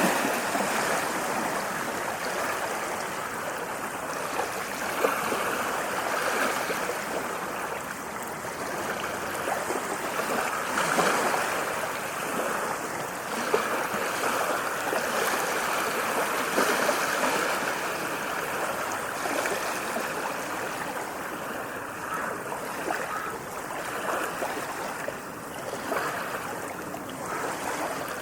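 Small waves lapping and washing at the water's edge: a continuous rush of water that swells and eases every few seconds, with a few small splashes.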